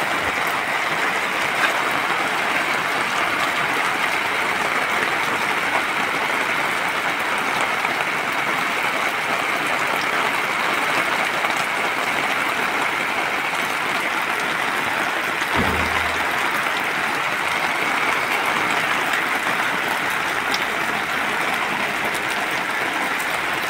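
Heavy rain pouring steadily onto floodwater and wet ground, a dense even hiss.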